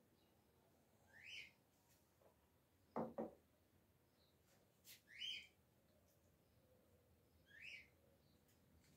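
A bird chirps three times, each a short high call that rises in pitch, a few seconds apart. Two quick knocks about three seconds in are the loudest sounds, with a fainter click shortly after.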